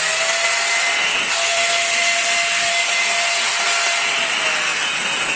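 Angle grinder running steadily with a cutting disc, cutting metal pipe. Its motor whine dips slightly under load near the end.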